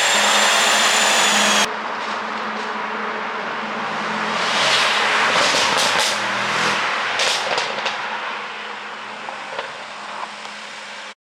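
Tuned 2019 Mercedes-AMG S63's twin-turbo V8 exhaust revving hard, the loud revving cutting off suddenly a little under two seconds in. The engine then rises and falls again, with sharp exhaust pops and crackles on the overrun from an ECU pop-sound tune, scattered over the second half.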